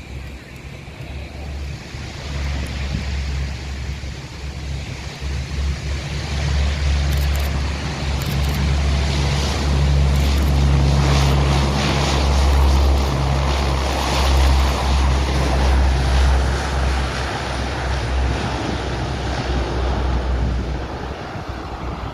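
An aircraft flying past: a deep rumble and rushing noise that swell for about ten seconds and then fade away, with wind buffeting the microphone.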